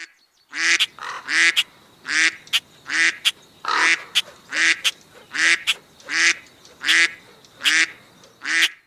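A short honk repeated in a steady rhythm about eleven times, roughly one every 0.8 seconds, each dipping slightly in pitch, with sharp clicks falling between the honks.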